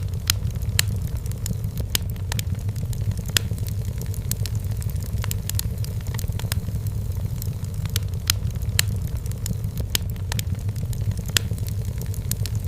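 Firewood burning in a fireplace: a steady low rumble of the flames with frequent, irregular sharp crackles and pops of the burning wood.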